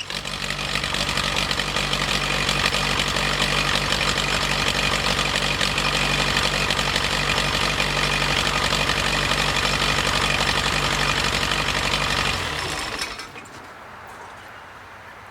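Perkins diesel engine on a stump grinder running steadily after a restart, its fuel supply restored by clearing the lift pump's check valves. It shuts down about twelve seconds in.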